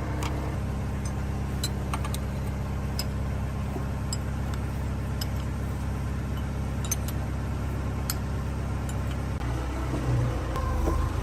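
Engine running steadily at idle, with scattered sharp metallic clicks. Near the end its note shifts and swells briefly, as if it takes up load.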